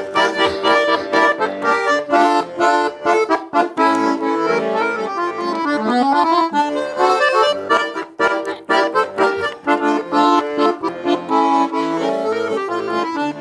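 Russian garmon (button accordion) playing an instrumental interlude in a folk song: quick melody notes over steady chords, with no singing.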